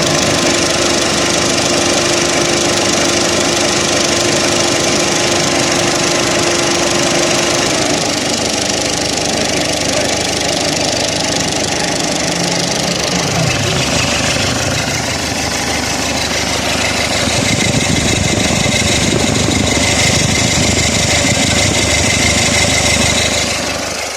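Car engine running steadily with a dense mechanical rush, its pitch briefly rising and falling about halfway through.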